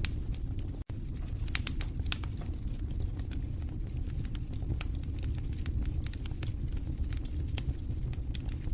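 Wood fire in a fireplace crackling: frequent irregular sharp pops and snaps over a low, steady rumble of the flames. The sound drops out for an instant about a second in.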